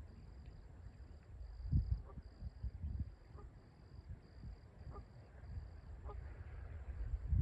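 Canada geese giving several short, faint calls about a second apart, over wind rumbling on the microphone and a steady pulsing insect trill.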